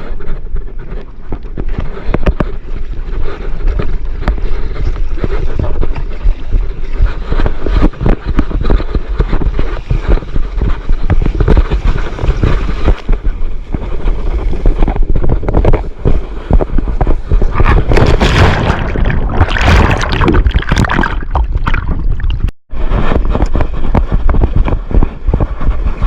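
Wind buffeting a GoPro's microphone, with water rushing and splashing around a stand-up paddleboard riding big typhoon surf. The sound cuts out for a split second late on.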